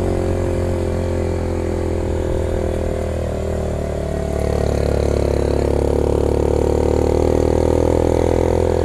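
A Yamaha motorcycle's engine running as it is ridden in second gear. It eases slightly about three seconds in, then pulls a little harder from about four and a half seconds on.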